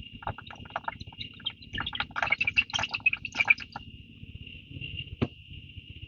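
A steady, high-pitched insect drone, with a quick irregular run of short, sharp clicks over the first half and a single click about five seconds in.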